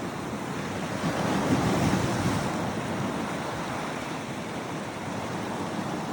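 Sea waves washing onto the beach, a steady rush that swells about one and a half seconds in, with wind noise on the microphone.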